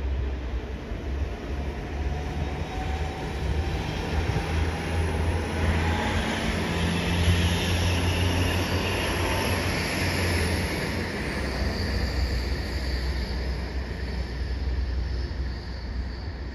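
Regional passenger trains passing through a station: a steady rumble of wheels on the rails, swelling in the middle as a multiple unit runs close by, with a faint whine that glides in pitch.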